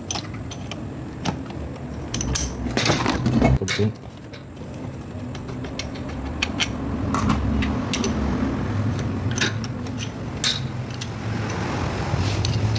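Metal tools and parts being handled: scattered clinks and knocks, with a busier, louder run of clatter about three seconds in, over a low steady hum.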